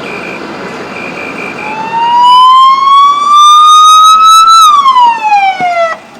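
A vehicle's reversing alarm beeping in quick groups of four over a running engine, then an emergency vehicle siren starting about two seconds in. The siren is loud: one long wail that rises slowly, peaks, falls away and cuts off suddenly near the end.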